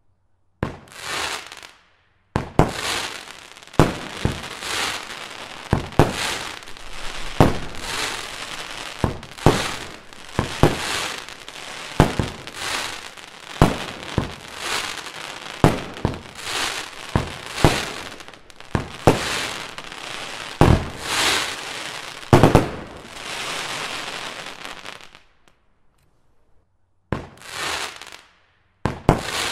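A 16-shot consumer fireworks battery firing its shots one after another: a sharp bang every second or two, each followed by crackling from the bursting crackling palms. Near the end there is a short pause before a few more shots.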